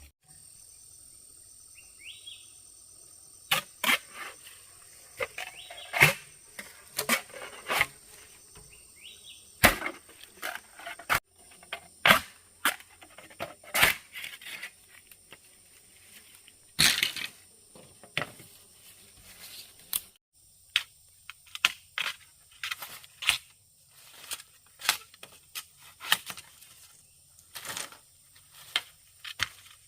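Irregular sharp knocks and clicks, a few of them loud, over a steady high-pitched insect drone.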